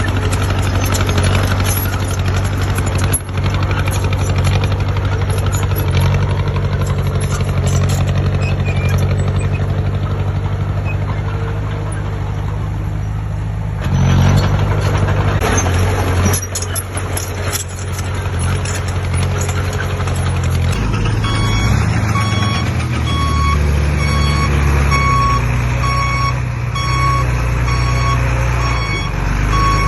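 Diesel engine of heavy earthmoving equipment running steadily, with a shift in its note about halfway through. Over the last third a reversing alarm beeps about once a second as the machine backs up.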